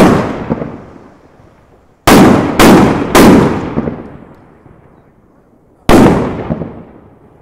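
Fireworks going off in a linked homemade chain: five very loud bangs, each with an echoing tail. One comes at the start, three follow in quick succession about two to three seconds in, and the last comes near six seconds.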